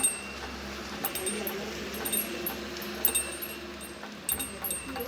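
Small bells struck irregularly, about once a second, each a bright high clink with a short ring, over a steady hiss of rain.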